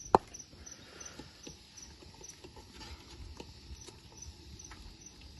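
Crickets chirping steadily in a regular high pulse, about three chirps a second. A single sharp knock comes just after the start, and light clicks and taps are scattered throughout.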